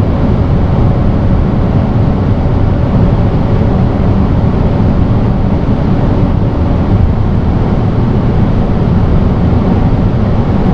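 BMW 340i's turbocharged 3.0-litre inline-six, heard from inside the cabin, running at a steady cruise: an even low drone that neither rises nor falls.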